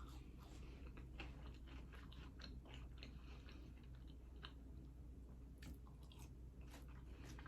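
Faint close-up chewing: irregular soft clicks and smacks of a mouth eating, over a low steady hum.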